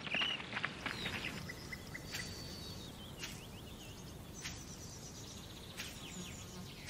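Birds chirping and calling here and there over faint outdoor background noise.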